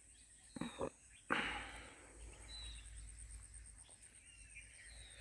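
Pondside outdoor ambience: an insect's high, evenly pulsing trill runs throughout, with a few short bird chirps. A rustling handling noise about a second and a half in is the loudest sound.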